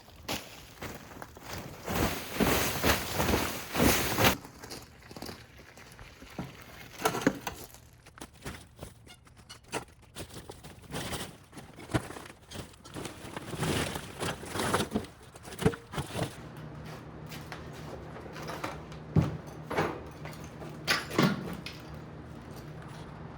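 Renovation work noises as debris is handled: a couple of seconds of dense scraping and rustling near the start, then scattered knocks and thuds. A low steady hum comes in about two thirds of the way through.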